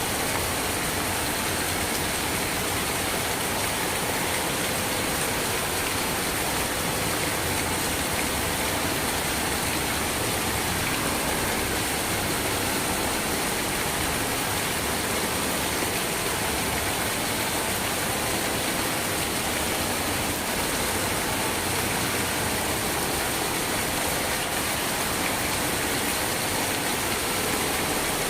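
Steady rain falling, a constant even hiss with no pauses or distinct drops standing out.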